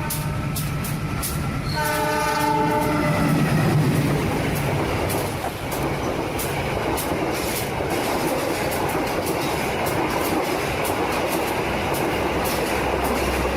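Train horn sounding once for about a second and a half, about two seconds in, over steady train running noise with a regular clatter of wheels on rail joints.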